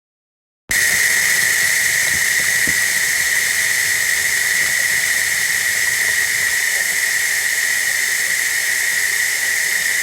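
Steady hiss of running water, starting abruptly just under a second in, with a high, whistle-like tone held through it.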